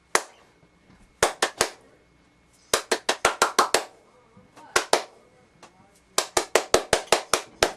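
Sharp hand claps in irregular bursts: one, then three, then a quick run of about eight, two more, and another run of about nine. They stand in for a clapperboard slate to sync sound and picture.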